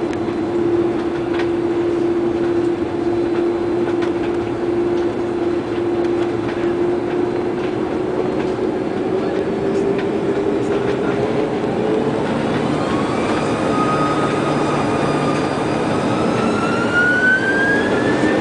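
Airbus A330 jet engines spooling up for takeoff over a constant rumble: a steady hum starts rising in pitch about halfway through, and a whine joins it that climbs higher toward the end.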